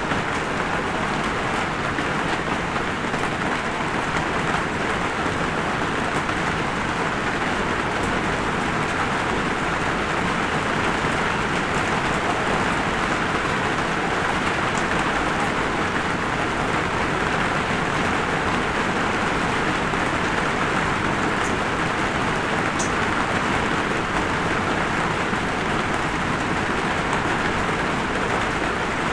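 Steady light rain, an even hiss, with a few single drops ticking close by.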